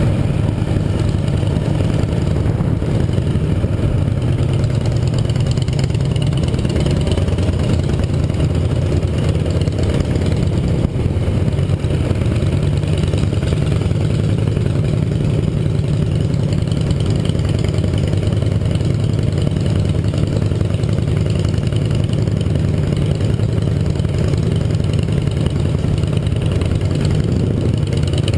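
Yamaha XT 660R's single-cylinder four-stroke engine running steadily.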